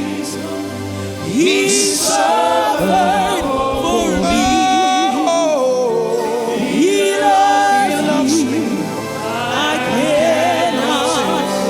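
Church choir singing a gospel praise song with band accompaniment, sung voices gliding over held bass notes.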